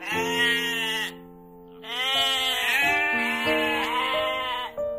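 Sheep bleating: one long, wavering bleat, then after a short pause a run of bleats, over background music with held notes.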